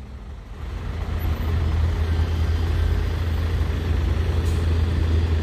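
Truck engine given throttle and running under load, its low hum growing louder over the first two seconds, then holding steady as the truck pulls away on the slippery slope.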